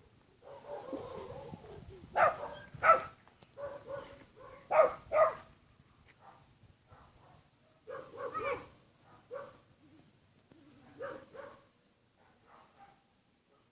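An animal's short, sharp calls in ones and twos, loudest a couple of seconds in and again around the middle, with a quiet stretch near the end.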